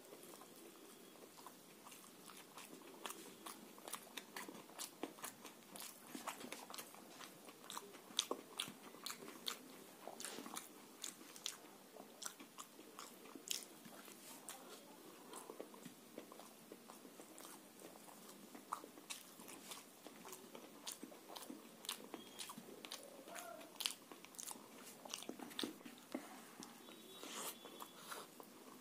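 Close-miked eating of rice with fish curry, mashed potato and fried fish, taken by hand: chewing and biting with many quick, irregular mouth clicks and smacks.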